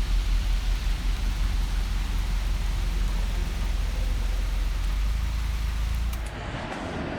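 Steady low engine drone with road noise, as heard inside a moving car. It cuts off sharply about six seconds in, giving way to a quieter, duller sound.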